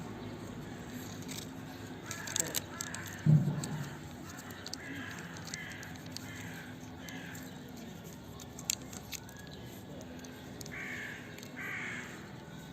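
A run of short harsh animal calls, about one every half second in two spells, with a single loud low thump about three seconds in and a few sharp clicks later.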